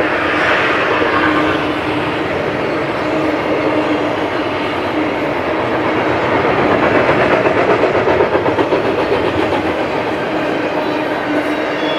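Double-stack intermodal container cars of a BNSF freight train rolling past: a steady loud rumble and clatter of steel wheels on the rails with a steady hum underneath, and a rhythmic clickety-clack that grows stronger around the middle.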